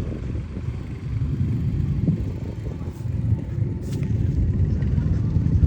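A burning pickup truck giving off a steady low rumble, with two faint pops about three and four seconds in.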